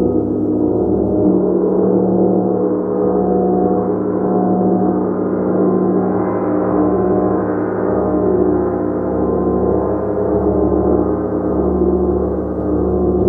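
Gong sounding continuously: a loud, steady, dense wash of many overlapping ringing tones, with no single strike standing out.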